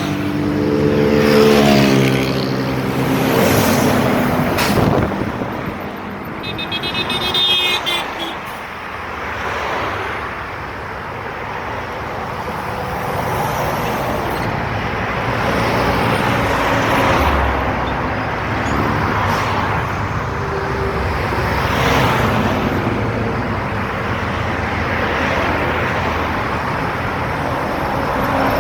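Scania truck being driven hard, its engine pulling under load amid road traffic noise. A strong pitched note in the first few seconds sags and fades, and the engine noise then swells and eases several times.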